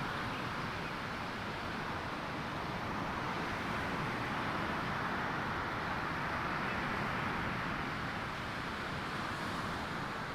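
Surf washing on a sandy beach: a steady rushing noise that swells a little midway and eases again.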